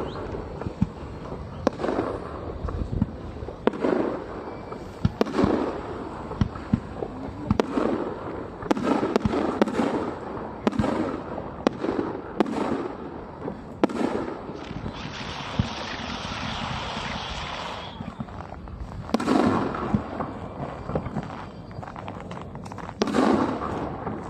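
Fireworks display: aerial shells bursting in a run of sharp bangs, each trailing off in a rumble. Partway through there are about three seconds of steady crackling hiss, and heavier bursts come near the end.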